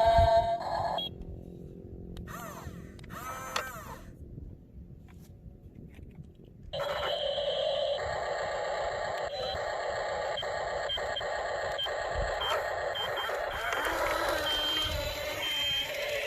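Electronic sound effects from a toy RC truck's small speaker: a steady tone at the start, then after a quieter gap a dense steady sound from about seven seconds in, with short high beeps repeating toward the end.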